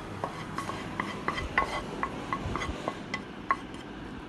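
A utensil scraping and clinking against a pan as sautéed spinach is scooped out: a string of short, light clinks with a slight ring.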